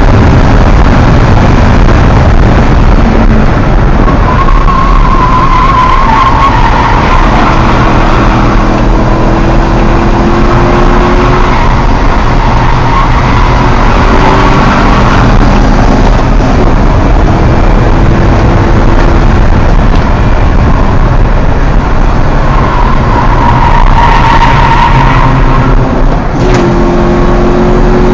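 Mitsubishi Colt's naturally aspirated 4G63 four-cylinder engine driven hard on track, heard loud from inside the cabin, revs climbing through the gears and stepping at the shifts. Tyres squeal through the corners, twice.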